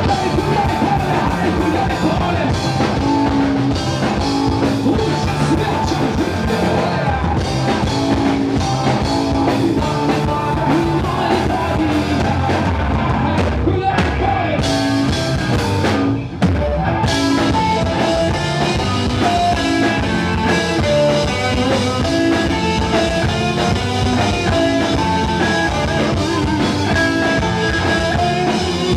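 A live rock band playing with a full drum kit, loud and driving, with a momentary break about halfway through.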